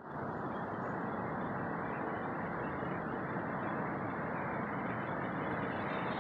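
Steady, even rushing noise with no distinct calls or knocks.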